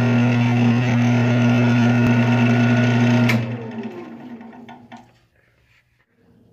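Wood lathe motor running with a steady hum, switched off a little over three seconds in with a click and spinning down to a stop, followed by a couple of small clicks.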